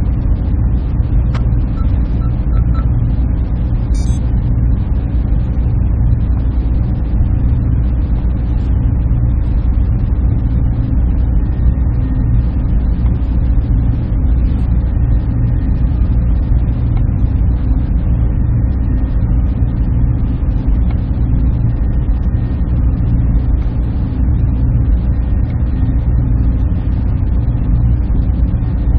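Server room ambience: the steady, even hum and rush of server fans and cooling, heaviest in a low rumble, with a couple of faint ticks in the first few seconds.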